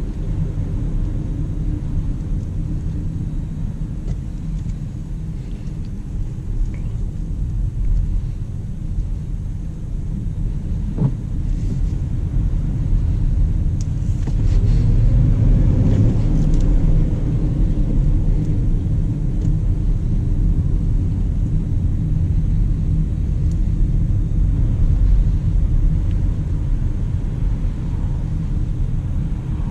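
Low road and tyre rumble of a 2019 Jaguar I-Pace electric SUV on the move, with no engine note. It grows louder about halfway through and stays louder after that.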